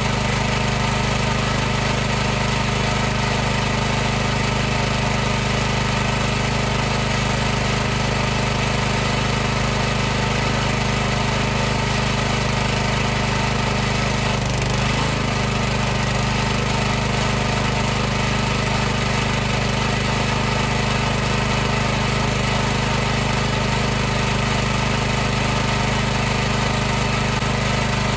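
High-pressure washer running steadily: a constant machine hum with an even hiss over it.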